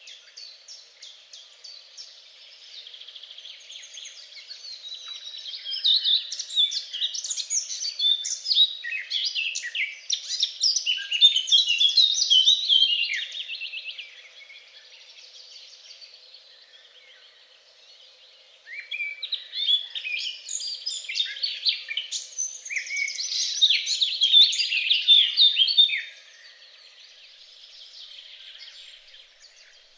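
Songbirds singing: quick, varied chirps and trills in two long loud stretches, one building a few seconds in and fading about halfway, the other starting just past halfway and stopping suddenly near the end, with softer calls between.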